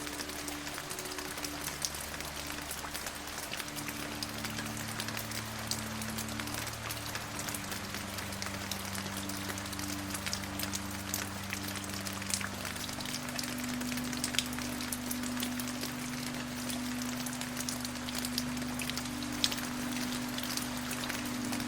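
Steady rain with many scattered drop ticks, laid over soft, held low drone chords that shift slowly every few seconds.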